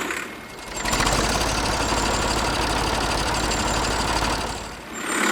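An engine idling with a fast, even chatter. It fades in about a second in and fades out near the end.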